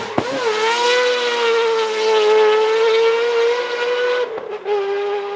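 A Mazda RX drift car's rotary engine held at high revs with a steady tone. It dips and comes back up just after the start, falls away briefly about four seconds in, then holds again at a slightly lower pitch.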